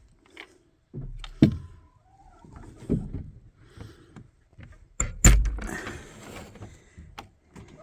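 A series of knocks and thuds from a door being worked, with the loudest bangs about five seconds in.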